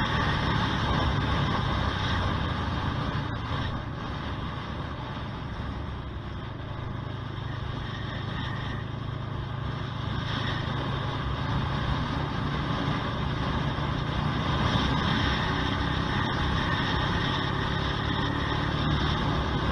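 Honda CBR125R's single-cylinder four-stroke engine and exhaust running under way, heard from the bike with wind and road noise. It eases off a few seconds in, then picks up and builds again in the second half.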